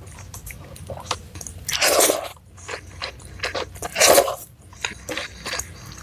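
Close-miked crunchy eating: a mouth chewing and biting into crumbly leftover scraps eaten by hand. Two loud crunches come about two and four seconds in, among many small clicks.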